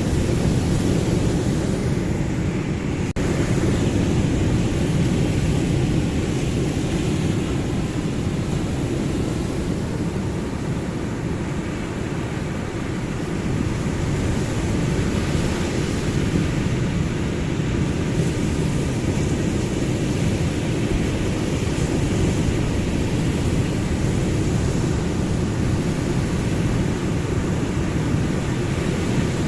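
Ocean surf: a continuous low rush of waves, easing a little about twelve seconds in and building again.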